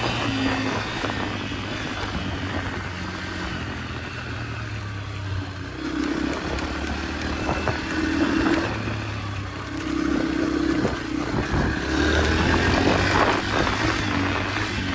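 Yamaha dirt bike engine running while being ridden on a trail, the throttle opened and eased off several times so the engine note rises and falls in surges.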